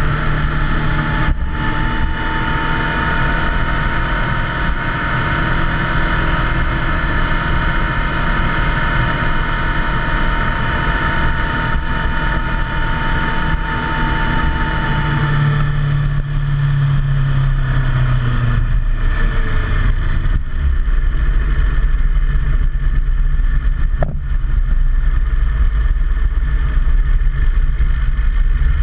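Motorcycle engine running at a steady cruise with wind and road noise. About halfway through, the revs fall away over a few seconds as the bike slows, leaving a lower rumble.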